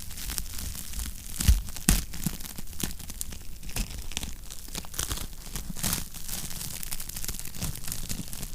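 Wood fire crackling in a fireplace: a continual run of small pops and snaps, with two louder pops about a second and a half and two seconds in.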